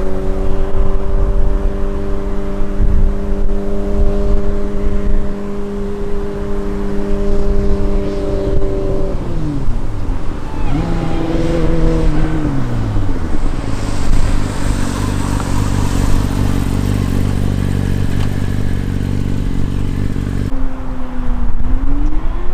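2003 Yamaha YZF-R6's 600cc inline-four through an Akrapovic exhaust with the dB-killer removed. The engine holds steady revs for about nine seconds, the revs fall away twice, it settles at a steady lower note, and near the end the revs climb again.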